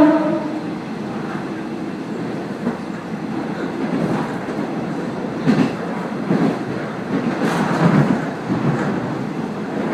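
Running noise inside a moving diesel railcar: steady rumble with wheels clunking over rail joints several times in the second half. A short pitched tone dies away right at the start.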